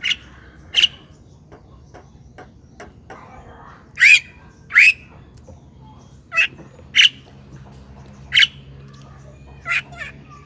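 A bird giving short, sharp squawking calls, about nine in all at uneven intervals, each rising quickly in pitch.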